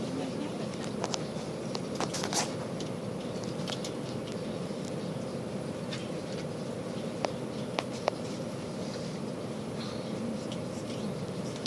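Tilt Train in motion, heard from inside a carriage: a steady low rumble with a faint hum, and scattered sharp clicks and knocks, a few near the start and three close together about seven to eight seconds in.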